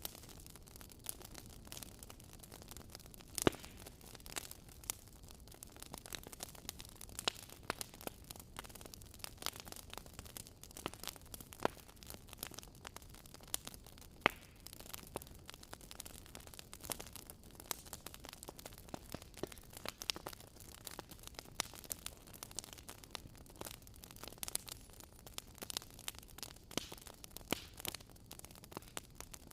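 Wood fire burning with a low steady rush and frequent irregular crackles and pops, a few sharper snaps standing out, the loudest about three and a half seconds in.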